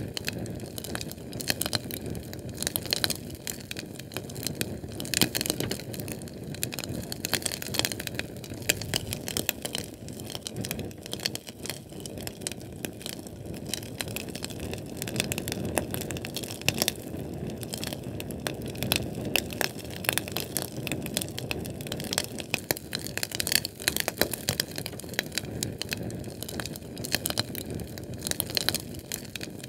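Fire burning with dense, irregular crackles and pops over a steady low rumble of flame.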